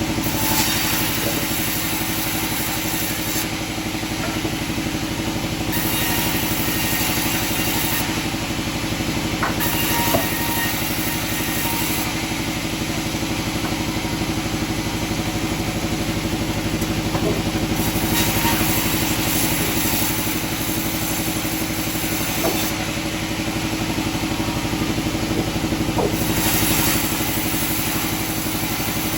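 Sawmill machinery running with a steady engine drone, with a few faint knocks and changes in the higher hiss.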